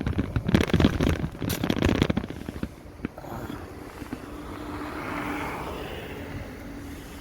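Crackling, rumbling noise on the microphone from riding the electric motorbike, dropping away after about three seconds to a quieter hiss of traffic with a faint steady hum.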